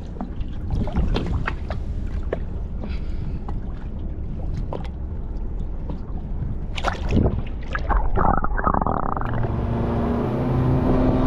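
Wind rumble with scattered knocks and splashes on a small fishing boat, then a boat motor starts running steadily about nine seconds in.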